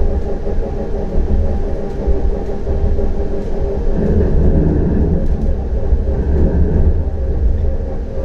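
CAF Urbos 100 tram running along the track: a steady rumble with several steady tones above it and a few faint ticks.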